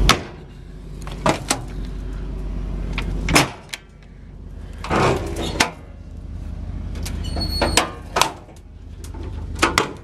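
Metal compartment doors and latches on a truck's service body being worked: a dozen or so sharp clicks and clunks spread through, one about seven seconds in with a brief metallic ring.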